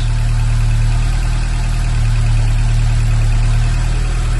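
BMW 2002 tii's four-cylinder fuel-injected engine idling steadily while still cold, on a slightly raised cold idle.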